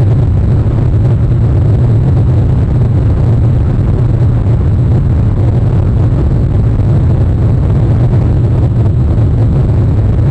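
Steady low rumbling noise of rain on an outdoor nest camera and its microphone.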